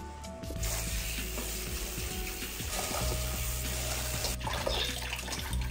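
Food sizzling in a hot pan. It starts about half a second in and stops suddenly near the end, over background music.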